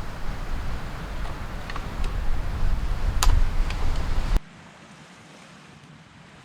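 Wind buffeting the microphone over the wash of surf on a beach, with a few sharp clicks; the gusty rumble cuts off suddenly about four seconds in, leaving a faint, even background.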